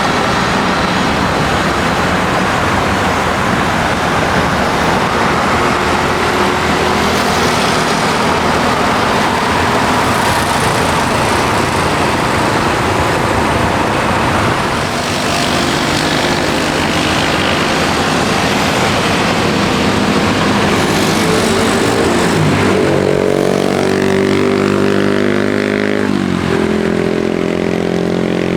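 Loud, steady vehicle noise. Near the end an engine's pitch rises and falls as it passes.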